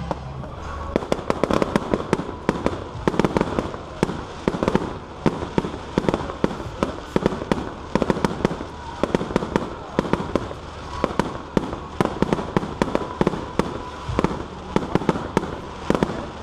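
Fireworks going off: a long, irregular run of sharp bangs and pops, several a second, without a break.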